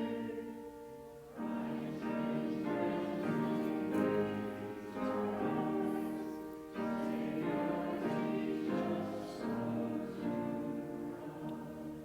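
A hymn sung by several voices with accompaniment, in held phrases with short pauses between them, dying away near the end.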